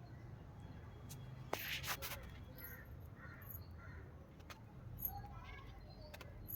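Birds calling in short repeated notes, with a brief burst of sharp clatter about a second and a half in.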